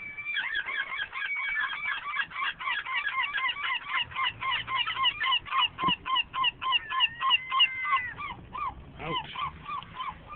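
Seagulls calling in a fast run of short, repeated honking notes, several overlapping, about five a second, with one longer drawn-out note near the end.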